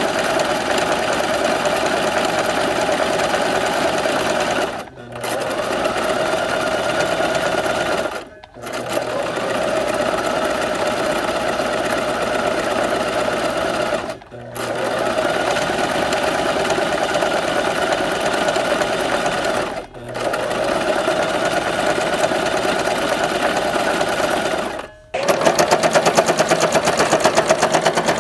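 Sewing machine running in steady bursts of stitching, stopping briefly five times, about every four to six seconds. After the last stop, near the end, it runs louder with an even, rapid pulse.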